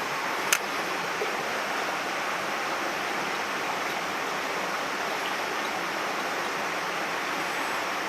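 Mountain stream water rushing steadily over rocks, with a single sharp click about half a second in.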